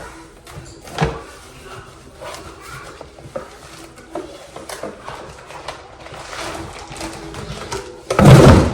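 Rustling, crinkling and small knocks of a parcel being handled, with a loud, short noisy burst about eight seconds in.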